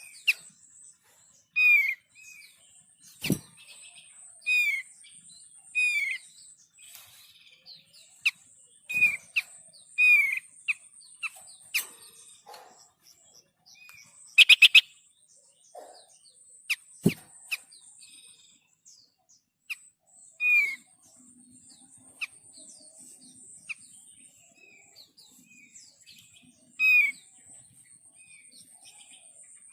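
Bird-lure recording of thick-billed white-eye calls: short, down-slurred chirps repeated every second or two over a high, thin trill that comes and goes in stretches of several seconds. A quick burst of sharp clicks comes about halfway through.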